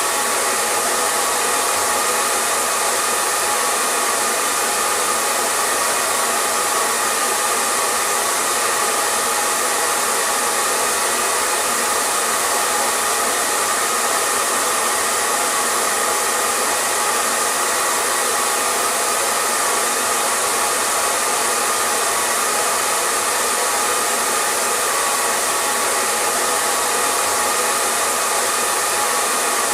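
Hair dryer running steadily: a constant, unchanging rush of blown air with a faint steady tone in it.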